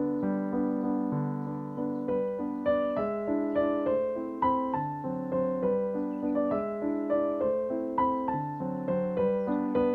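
Background piano music: a slow, gentle solo piano piece playing steady notes and chords.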